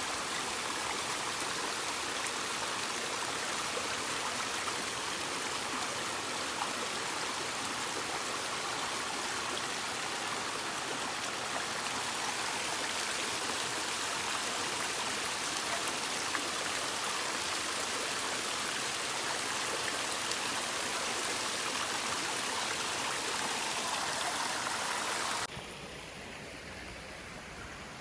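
Running water rushing steadily, like a stream over rocks. It cuts off abruptly near the end, leaving a quieter hiss.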